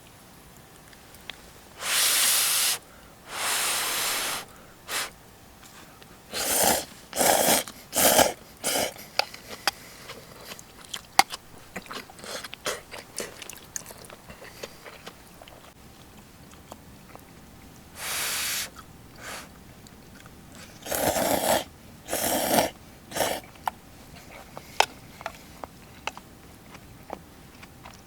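A person eating: short, breathy slurps in a few clusters, with small clicks and chewing sounds between them.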